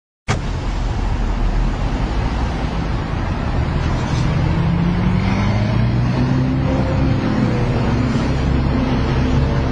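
A car engine running close by, its pitch rising steadily from about three seconds in as it revs, under a loud rough hiss.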